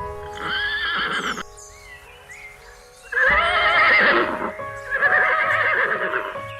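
A horse neighing three times, each whinny a wavering, quavering call, over background music.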